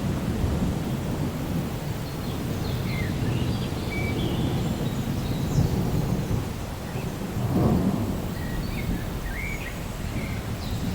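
Rain falling with a steady low rumble of distant thunder, which swells briefly about two-thirds of the way through. A few short high chirps sound faintly over it.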